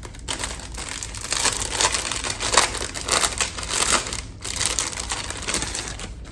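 Packaging crinkling and rustling in irregular bursts as a metal wind spinner is unwrapped, with a brief pause about four and a half seconds in.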